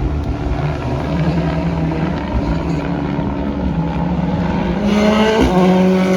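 Rally car engine at high revs, changing pitch with throttle and gear changes and getting louder as it approaches. A sharp gear change comes about five seconds in, followed by a steady, louder high note.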